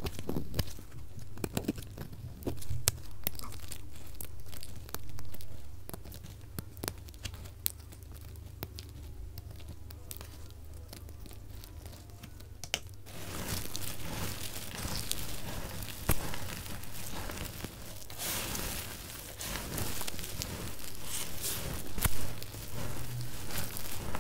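Bar soap being cut, crisp crunching and crackling with scattered sharp clicks, sped up to double speed. About halfway through it turns to a denser, louder crumbling crackle.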